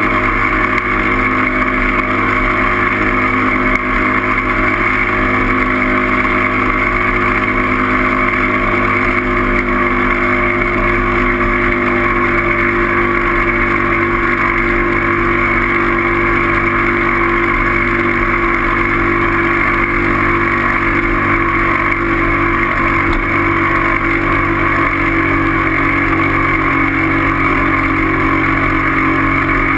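Steady drone of a vehicle on the move, with a constant hum that holds one pitch and a rush of wind noise over it, unchanging throughout.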